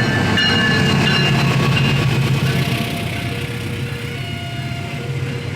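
CC 206 diesel-electric locomotive running loud as the train pulls away from the station, easing a little after about three seconds. A simple melody of held notes plays over it.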